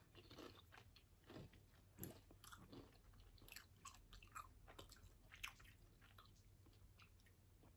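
Faint chewing of crunchy chips: soft, irregular crunches.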